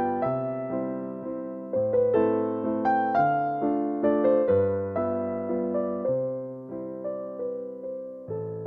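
Background piano music: a slow, gentle melody of struck notes over changing bass notes.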